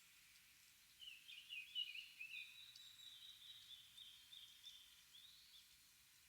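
Small wild birds calling in a bamboo grove: a jumble of quick chirping notes about a second in, then a run of high, thin calls that fade out near the end, over a faint steady hiss of background ambience.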